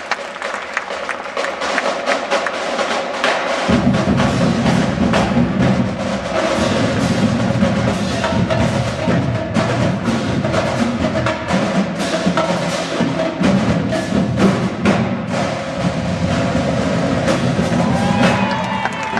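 Marching band drumline playing a fast rhythmic passage of sharp, clicking stick and drum hits, with a deeper, fuller layer coming in about four seconds in.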